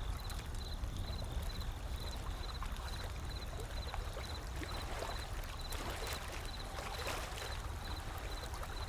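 Wood fire crackling in scattered sharp pops over the steady wash and low rumble of ocean waves, with a faint high chirp repeating about three times a second.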